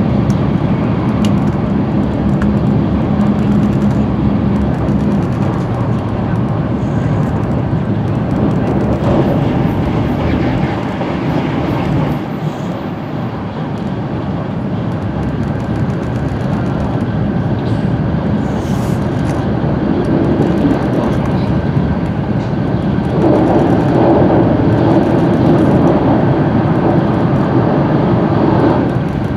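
Shinkansen bullet train running at speed, heard from inside the passenger cabin as a steady rush of running noise. It grows louder and fuller for the last few seconds as the train runs onto a steel truss bridge.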